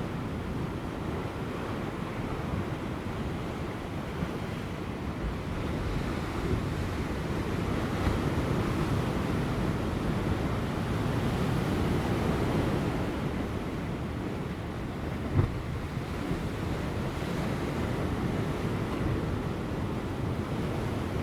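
Large ocean waves breaking on offshore rocks just before high tide: a continuous surging wash that swells in the middle, with light wind on the microphone. A brief thump about fifteen seconds in.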